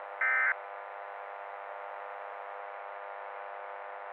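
One short screech of EAS/SAME data tones, the end-of-message burst that closes an emergency alert. After it comes a steady buzzing hum with hiss, like a dead-air radio carrier.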